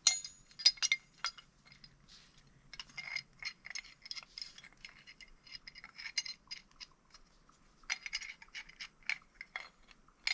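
Metal tools, among them pipe wrenches, clinking and clanking against each other as they are rummaged through, in many short, sharp knocks with a ringing tone.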